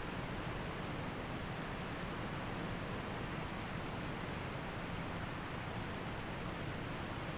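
Waterfall rushing: a steady, even noise of falling water with no other sounds.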